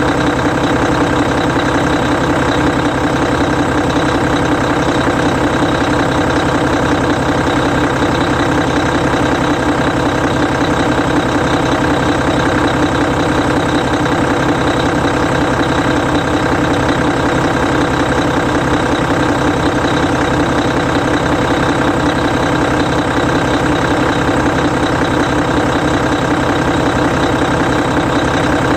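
Hino E13C 12.9-litre inline-six diesel engine of a Hino Selega bus idling steadily with the bus standing still, its even firing pulse unchanged, with no revving.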